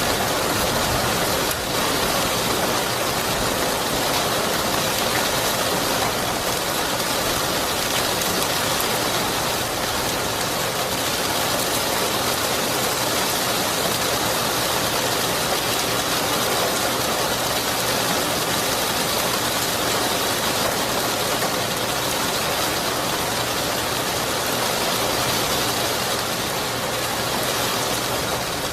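Steady rain falling, an even hiss that holds level throughout, with no thunder rumble heard.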